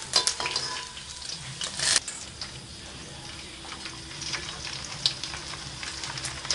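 Pork skin frying in hot oil in a steel wok, a steady sizzle, with metal tongs and a ladle clicking against the pan. There is a loud sharp clatter about two seconds in.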